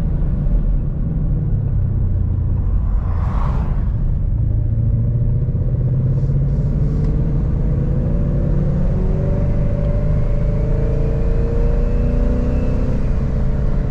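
Twin-turbo Ford Mustang's engine running under way, a steady low rumble whose pitch climbs slowly from about five seconds in as the car gently picks up speed. A brief hiss about three seconds in.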